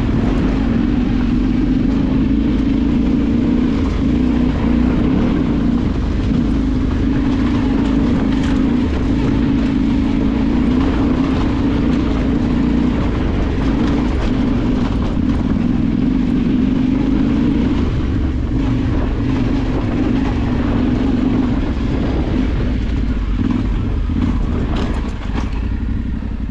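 Off-road vehicle engine running under load at a fairly steady speed, easing off near the end.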